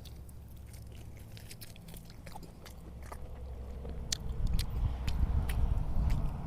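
A person chewing a mouthful of food, with sharp mouth clicks and smacks. A low rumble grows louder about four seconds in.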